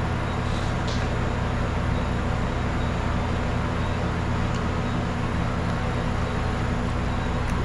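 A steady low mechanical hum under constant background noise, with an occasional faint tick.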